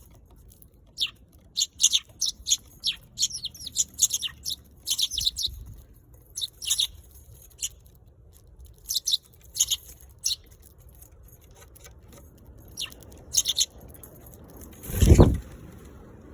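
Eurasian tree sparrows chirping: many short, sharp chirps, some single and some in quick clusters, with pauses between. A loud low thump comes near the end.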